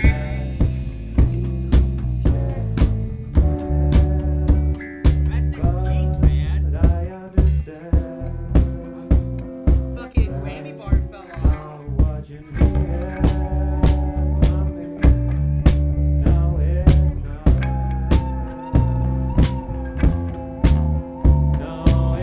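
A live band jamming: a drum kit keeps a steady beat of about two hits a second under a low bass line and sustained, bending guitar notes.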